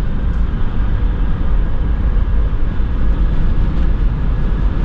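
Toyota 4Runner driving at highway speed: a steady road and engine rumble, strongest in the low bass.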